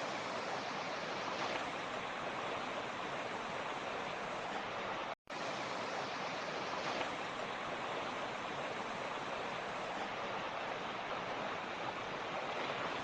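Mountain creek water running steadily, with a brief break to silence about five seconds in.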